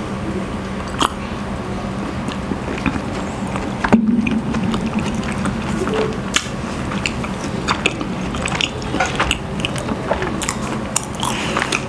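Close-miked mouth sounds of chewing: scattered wet clicks and smacks over a steady low hum, with one louder sharp knock about four seconds in.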